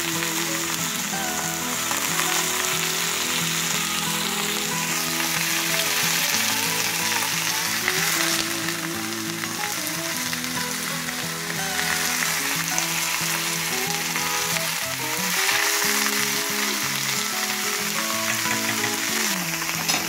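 Red amaranth leaves sizzling in hot oil in a frying pan as they are stir-fried, over background music.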